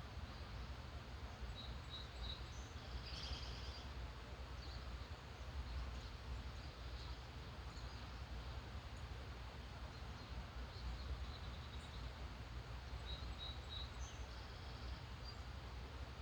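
Faint, distant birds chirping and singing over a steady background hiss and low rumble, with short bursts of song about three seconds in and again near the end.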